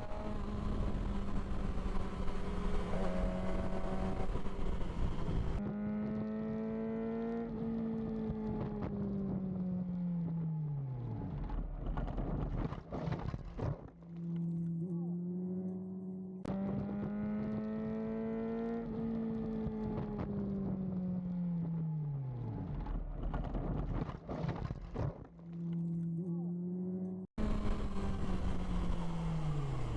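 Motorcycle engine running with a steady note, then its pitch sweeping down as the bike slows hard. The same passage plays twice, the second about halfway through.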